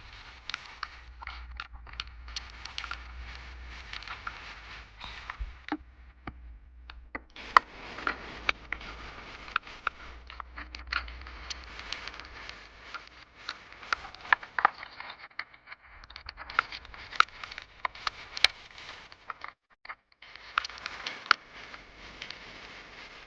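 Heavy rain, with drops striking close to the microphone in irregular sharp taps over a steady low rumble, with two brief dips in the sound.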